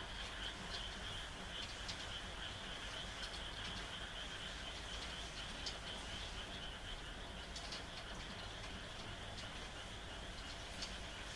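Chorus of frogs calling at night, a continuous high trill with scattered short sharp clicks, over a steady hiss of rain.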